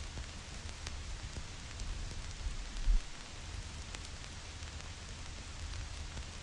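Vinyl record surface noise: a steady hiss with scattered sharp crackles and pops, over a low rumble that swells briefly about three seconds in.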